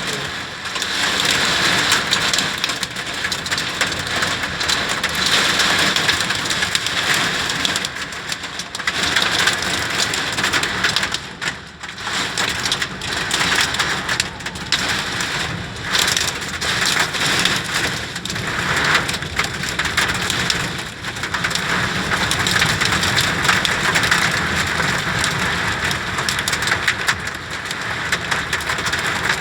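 Heavy rain pouring down in a summer thunderstorm, a dense steady hiss that swells and eases, briefly lighter about twelve seconds in.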